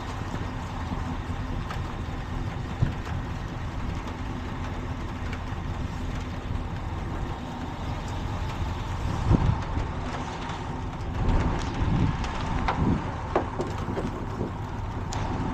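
Truck engine idling steadily, with a handful of sharp knocks and clatter in the second half.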